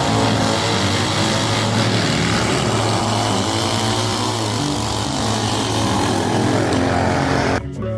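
Racing lawnmower engines running hard, a steady drone with a pitch that sweeps down and back up around the middle as machines pass. The sound breaks off briefly near the end.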